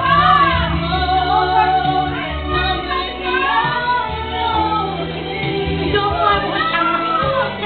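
A woman singing a slow pop ballad with musical accompaniment, the melody gliding through long held notes, with other voices singing along.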